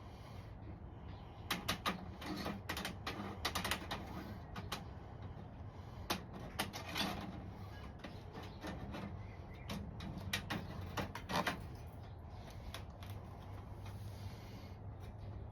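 Irregular sharp clicks and light knocks of hand work as materials for a makeshift bird enclosure are cut and fitted together, coming in clusters a few seconds apart over a low steady background.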